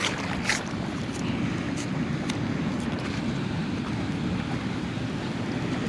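Steady rushing roar of heavy water pouring out of a flooded spillway, with a few faint light ticks.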